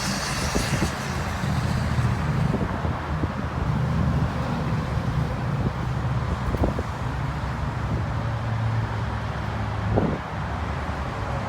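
Semi truck's diesel engine running steadily, with wind noise and a couple of brief thumps, one past the middle and one near the end.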